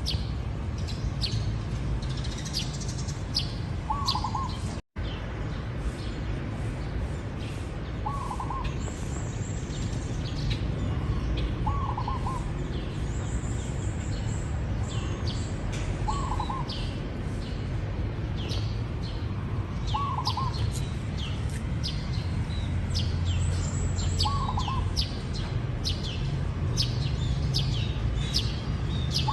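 Zebra dove cooing, a short rolling coo repeated about every four seconds, over the constant high chirping of other small birds and a steady low background rumble.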